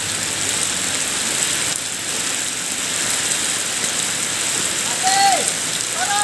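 Heavy rain falling steadily with a constant hiss. About five seconds in there is a short shout from a person's voice, falling in pitch.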